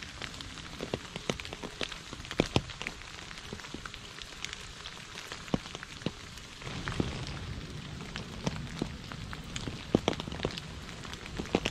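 Rain falling into a puddle and onto wet leaves, individual drops heard as irregular sharp ticks over a steady hiss. A low steady rumble comes in a little past halfway.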